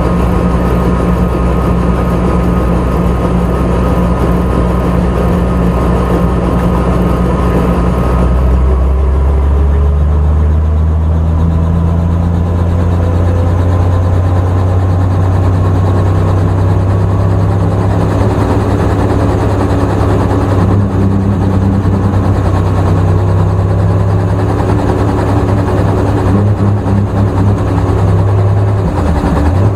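Helicopter engine and rotor running with a loud, steady drone. About eight seconds in, the pitch of the drone steps up and then holds at the higher level.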